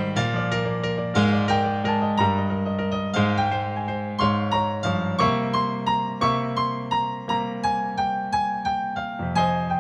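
Solo piano or electric piano playing a slow, gentle melody over held bass notes, notes struck about two to three a second.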